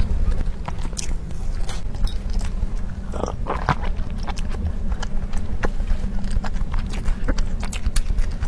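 Close-miked eating sounds of someone chewing soft tiger skin cake roll: many short wet smacks and mouth clicks, busiest around the middle. A steady low hum sits underneath.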